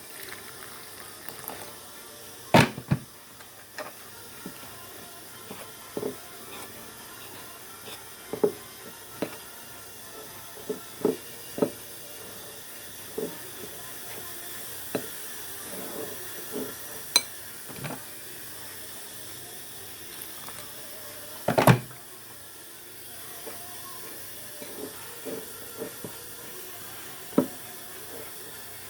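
Hands kneading spinner dumpling dough, with scattered soft knocks and taps and two louder thumps, about three seconds in and about twenty-two seconds in, over a steady faint hiss.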